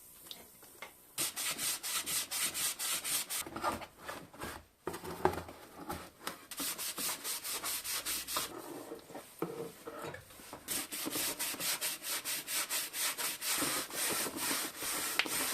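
Quick back-and-forth abrasive rubbing strokes, about four a second, with a brief pause about five seconds in, like hand sanding.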